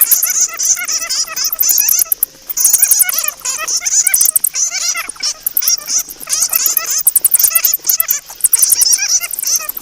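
Bats squeaking and chattering: a dense, unbroken stream of short, shrill, overlapping calls with rapid high ticking.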